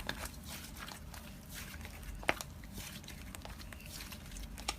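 Quiet room noise with a few faint taps, and one sharper click about two seconds in and another near the end.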